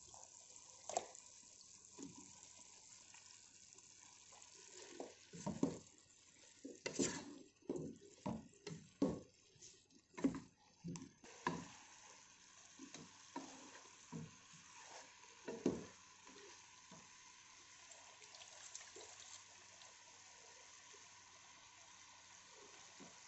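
Minced meat and potato chunks sizzling in a metal pot as the meat begins to brown, with a wooden spatula stirring and knocking against the pot, mostly between about five and twelve seconds in, with a last knock at about sixteen seconds.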